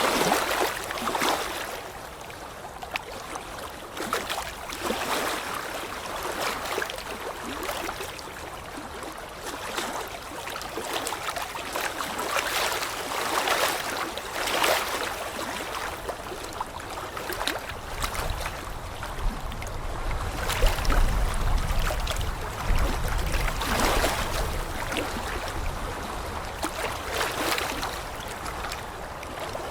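Flowing water, like a stream or river running, with irregular surges in the rush. A low rumble joins in for several seconds past the middle.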